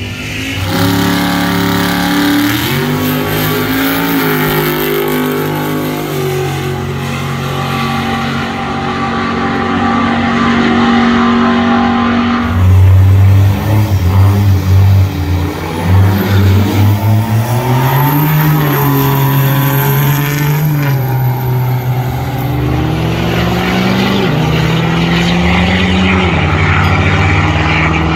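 Loud car engine revving and accelerating, its pitch climbing and dropping again and again. About halfway through there is a choppy, stuttering stretch.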